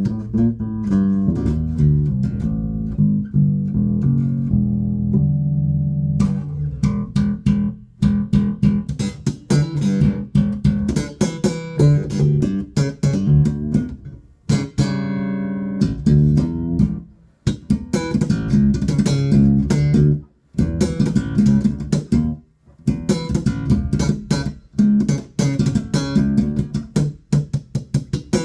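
Spector Euro 4 Classic electric bass with active EMG pickups, played solo through a Markbass Little Mark 58R combo amp set flat. It starts with held low notes, then from about six seconds in moves into a busy line of sharp, percussive notes with brief pauses.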